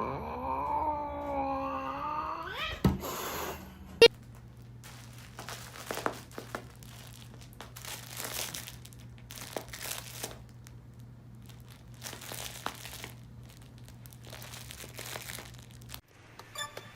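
A cat's long, wavering meow lasting about three seconds and rising at the end. A sharp knock follows, then a stretch of scattered rustling and crinkling over a faint low hum.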